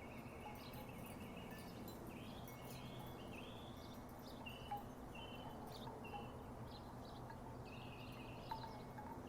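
Wooden tiki wind chimes knocking softly now and then, the clearest knocks about halfway through and near the end. Birds call in the background and a low steady hum runs underneath.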